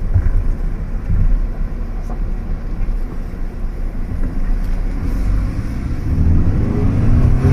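Fiat Egea's engine and road noise heard from inside the cabin while driving, with the revs climbing about six seconds in as the car accelerates.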